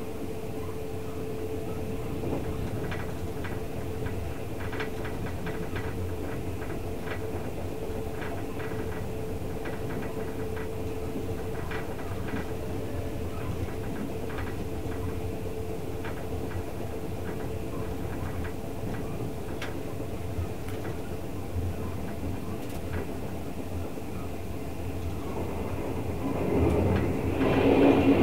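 Running noise inside a Twilight Express sleeper train on the move: a steady rumble and hum with scattered clicks from the wheels on rail joints. Near the end it swells into a much louder roar as the train enters a tunnel.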